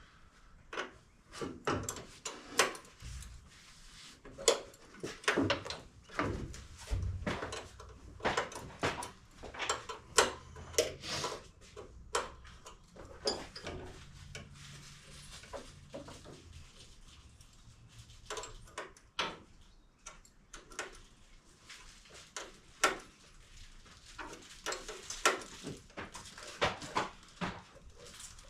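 Irregular clicks and knocks of hand tools on a fuel-line fitting, a wrench turning and tightening it.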